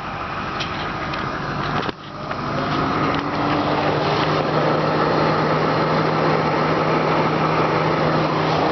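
A Ford Mustang GT's 4.6-litre V8 idling steadily: a constant low hum that briefly drops away about two seconds in, then comes back louder and holds.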